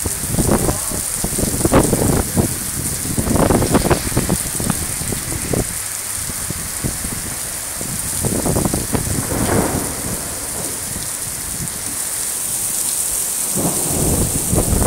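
Heavy downpour hissing steadily on the pavement and parked cars, with low rumbling surges four times that swell and fade over a second or two.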